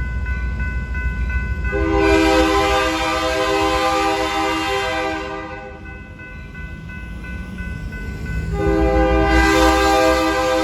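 Locomotive air horn sounding two long blasts, each a chord of several notes, over the low rumble of the train.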